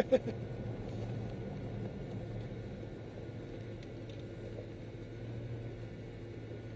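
Bugatti Veyron's W16 engine and tyres heard from inside the cabin at low speed: a steady low drone. A short pitched blip sounds at the very start.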